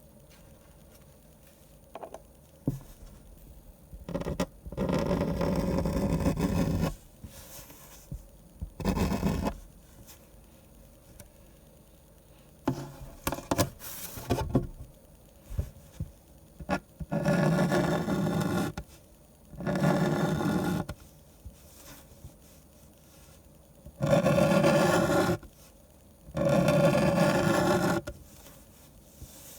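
Drawing tools scraping and rubbing on paper during manga drawing, in six bursts of one to two seconds each, with light taps and clicks of handled tools in between.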